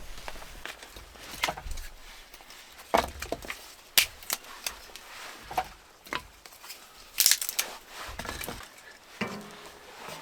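A run of irregular sharp knocks and cracks of wood being worked by hand, loudest about four seconds and seven seconds in.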